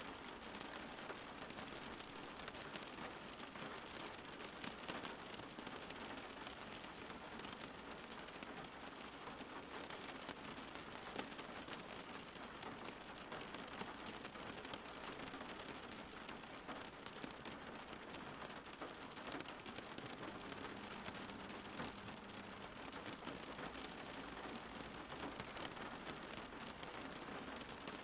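Steady rain falling: an even, dense hiss of many small drops, with no change in strength.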